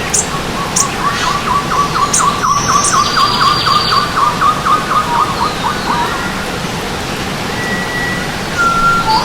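Several forest birds singing over the steady rush of a stream. One bird gives a long, fast series of repeated notes, about four a second, for roughly five seconds. Higher whistles and a quick pulsed call come in between, and clear whistled notes sound near the end.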